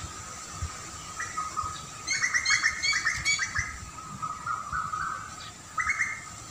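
Songbird chirping in a quick run of repeated notes about two seconds in, with a shorter burst near the end, over a faint steady high tone.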